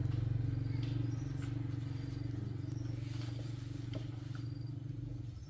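Small motorcycle engine starting up suddenly and running at a steady idle, a low even putter that eases slightly near the end.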